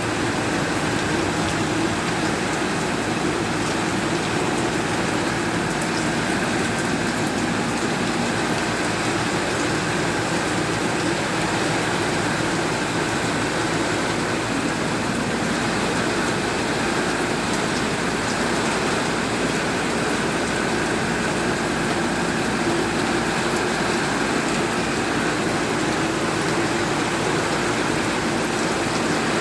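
Steady rain shower falling, an even, unbroken hiss of rain.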